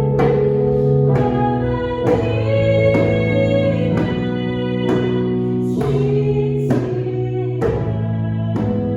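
Praise-and-worship song: sung vocals over instrumental accompaniment, with a sharp stroke marking the beat about once a second.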